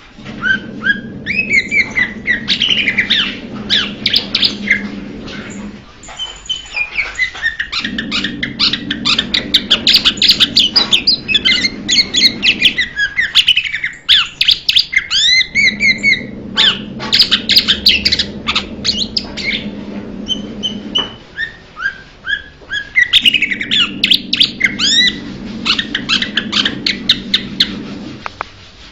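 Blue-winged leafbird singing a fast, varied stream of whistled, gliding and chattering notes, in long phrases with brief breaks about every eight seconds.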